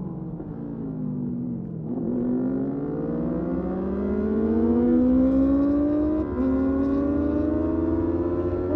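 Motorcycle engine whose pitch falls for about two seconds as it slows, then climbs steadily as it accelerates, dipping briefly twice.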